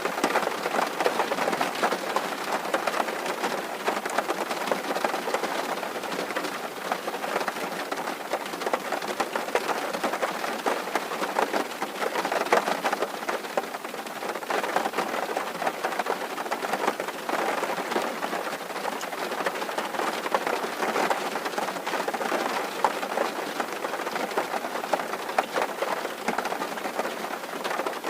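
Rain drumming steadily on a tin roof: a dense patter of many small drop impacts on the metal.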